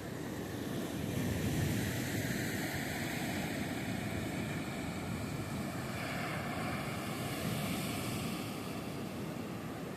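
Sea surf breaking and washing on a beach: a steady rushing noise that swells as waves come in, a little louder about two seconds in and again around three-quarters of the way through.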